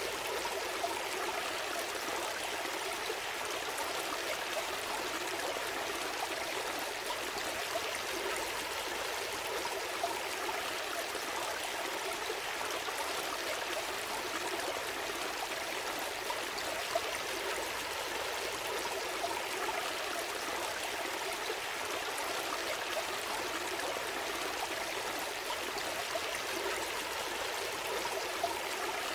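A gentle stream flowing and trickling steadily, with a few small splashes here and there.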